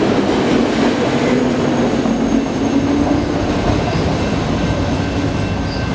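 The last autorack cars of a fast BNSF freight train rushing past: a steady roar and rumble of steel wheels on the rail, with a faint high whine. The roar stays loud as the train pulls away.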